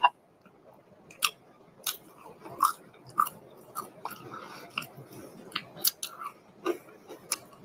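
Close-miked eating: chewing with wet lip smacks and sharp, irregular mouth clicks as a sauce-covered chicken tender is eaten and the fingers are licked.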